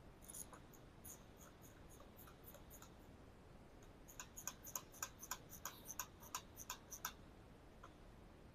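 Faint, sharp clicks of a hand ratchet working small screws into a plastic trimmer cover. A few scattered clicks come first, then a quicker run of about four clicks a second for a few seconds.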